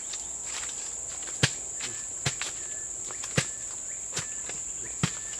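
Steady high-pitched drone of forest insects, with five sharp knocks about a second apart that stand out above it.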